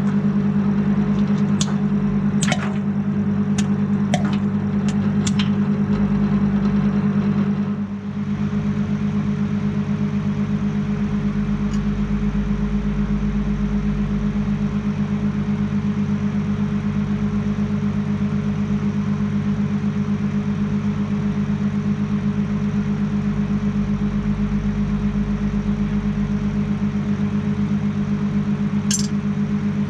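Microwave oven running with a steady hum. A few sharp pops come in the first few seconds and one more near the end, typical of popcorn kernels bursting inside.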